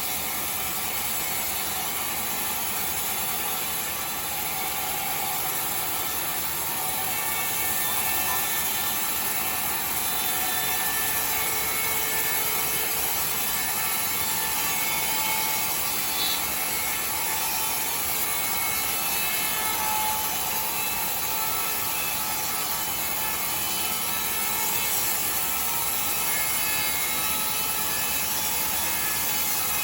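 Sawmill saw cutting timber: a steady, continuous mechanical noise with a strong hiss, unchanging throughout.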